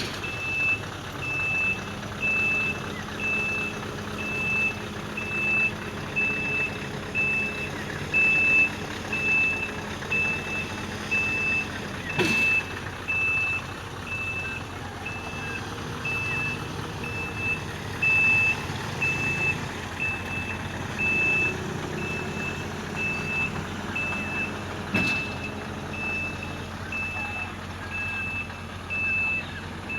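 Reversing alarm beeping steadily, about one and a half beeps a second, over a heavy diesel engine running, as the excavator is unloaded from the truck's trailer. Two sharp knocks come about halfway through and again near the end.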